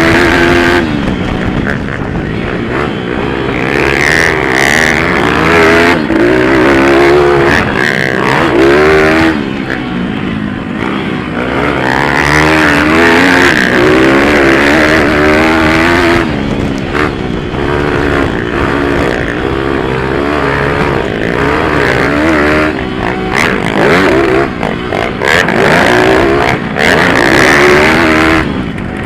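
Several pit bike engines racing round the track, their pitch rising and falling over and over as riders open and close the throttle through the corners.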